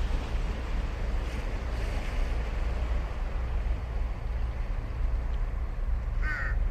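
Steady low rumble of surf breaking on the beach, with a single short crow caw near the end.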